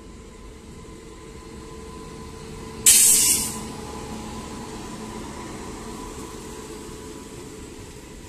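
Express train passing close at speed behind a WAP-7 electric locomotive: a steady rumble of wheels on rail that builds as the train arrives. About three seconds in, as the locomotive comes alongside, there is a sudden loud hiss that fades within a second.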